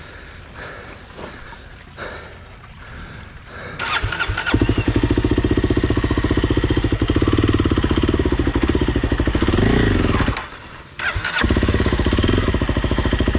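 Dirt bike engine started about four seconds in, then running steadily at idle. Near the end it cuts out for about a second and is started again.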